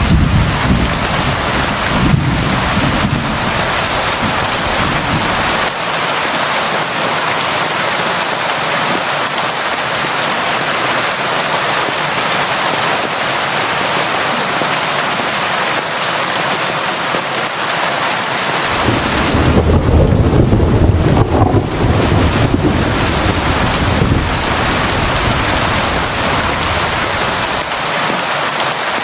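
Steady heavy rain falling, a dense even hiss. A low rumble of thunder sits under it at the start and swells again for a few seconds about two-thirds of the way through.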